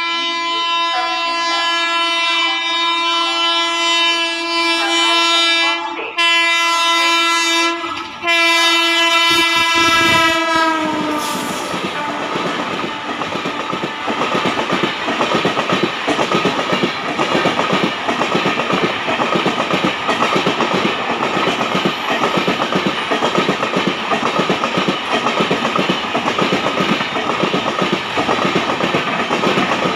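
Indian Railways electric locomotive sounding a long air-horn blast, broken twice by short gaps, that ends about 11 seconds in. After it, the coaches pass at speed, their wheels clattering steadily over the rail joints.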